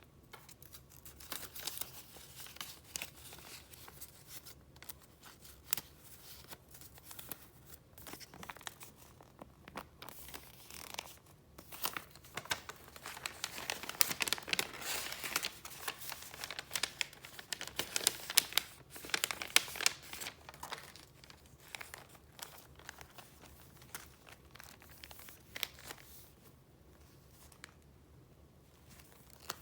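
Paper being handled: steady rustling and crinkling with many small sharp crackles, busiest and loudest through the middle stretch.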